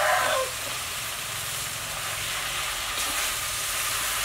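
Stir-fried eel and chillies sizzling steadily in a hot wok as holy basil leaves are added and stirred through with a metal spatula.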